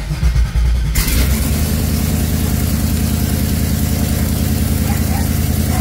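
LS V8 engine in a 1996 Camaro being started: the starter cranks for about a second, the engine catches, and it settles into a steady idle.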